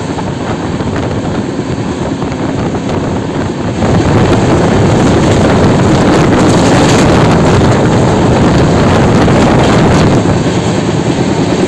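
Running noise of a moving express train with LHB coaches, with wind rushing over the microphone at an open coach door. It grows louder about four seconds in.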